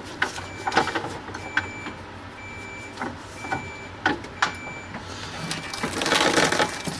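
Electronic beeping: one short high beep about every second, repeating steadily. Scattered clicks and knocks sound between the beeps, and there is a brief hiss near the end.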